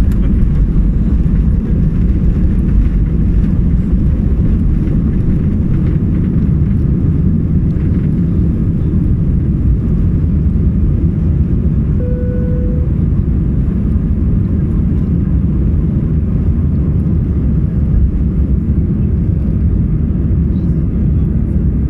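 Airplane during takeoff: a loud, steady low rumble of the engines. A short single tone sounds about halfway through.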